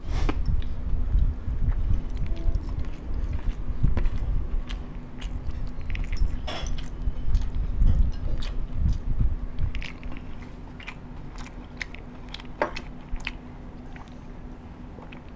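Close-miked chewing of a mouthful of masala rice with wet mouth sounds and many small sharp smacks and clicks, growing quieter after about ten seconds.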